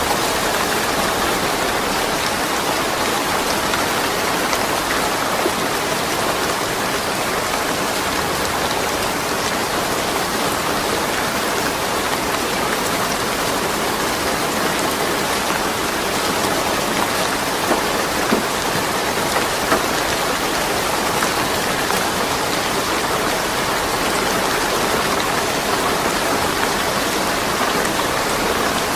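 Steady rain falling with no thunder, an even hiss with a few individual drops ticking here and there.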